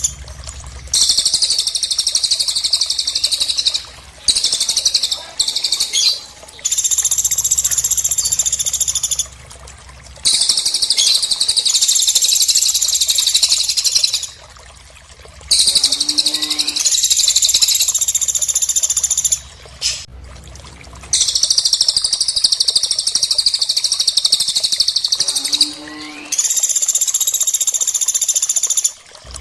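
Recorded birdsong of cililin and pelatuk birds. Long, loud, high-pitched trilling phrases of several seconds each are separated by short pauses. Twice a lower call steps down and then sweeps upward.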